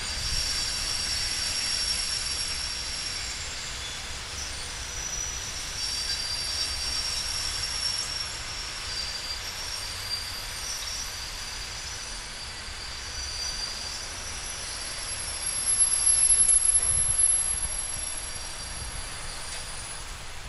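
Passenger train rolling slowly into the station, squealing with high steady tones that come and go over a low rumble. The squeal is loudest about three-quarters of the way through.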